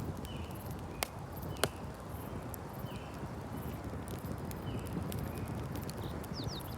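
Campfire crackling and popping, with two sharp pops about a second and a second and a half in, over a steady low rumble. Short high chirps repeat about every second and a half.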